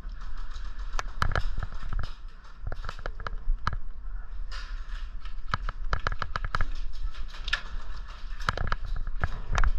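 Airsoft guns firing: irregular sharp shots, some single and some in quick short bursts.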